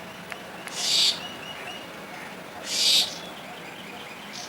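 Baby parrot giving two harsh, raspy calls about two seconds apart, each about half a second long, with a few faint short chirps in between.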